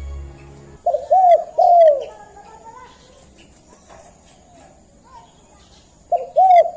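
Spotted dove (tekukur) cooing in the kolbuntet style: a three-note phrase about a second in, repeated near the end, its last note longer and falling. A low drone from the backing music dies away in the first second.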